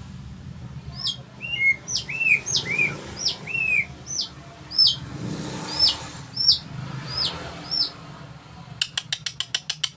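White-rumped shama (murai batu) singing: a run of clear, repeated whistles, sharp high notes sweeping downward alternating with lower arched notes. Near the end comes a fast rattle of about ten ticks a second.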